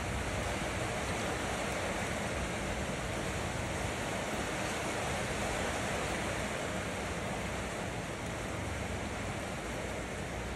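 Steady rain falling on wet concrete and puddles, an even hiss with no let-up.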